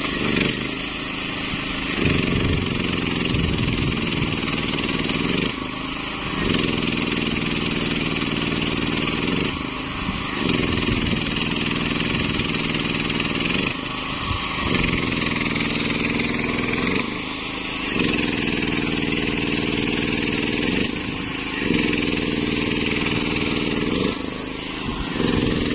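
Engine-driven generator running under the load of arc welding on an excavator bucket: a steady engine hum with the hiss of the welding arc over it. Both dip briefly about every four seconds as the arc stops and is struck again.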